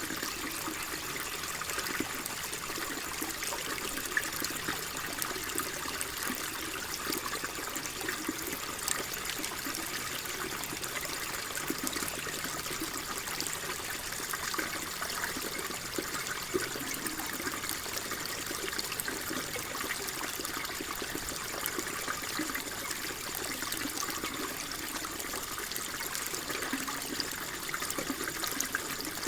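Water flowing and trickling steadily, with small splashes and burbles throughout, like a shallow stream running over stones.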